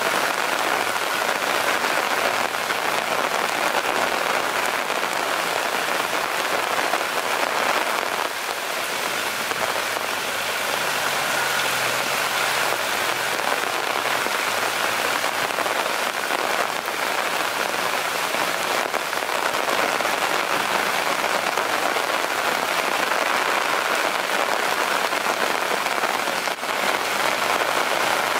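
Heavy rain falling steadily on wet, muddy ground: a dense, even hiss.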